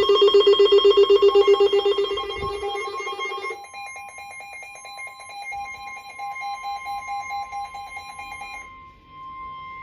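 NOAA Weather Radio warning alert: a steady alarm tone with a rapidly pulsing electronic alarm beeping over it, signalling a severe thunderstorm warning. A lower pulsing tone drops out about a third of the way in, and the higher pulsing stops near the end, leaving the steady tone alone.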